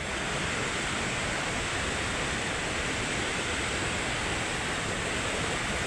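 Steady rushing of falling water from Victoria Falls, an even, unbroken noise.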